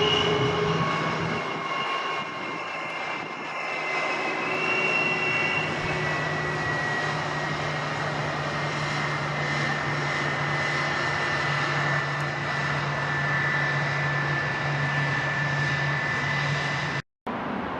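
Jet airliner's engines running as it passes: a steady rush with a high whine that slowly drops in pitch over a low, steady hum. The sound cuts out for an instant near the end.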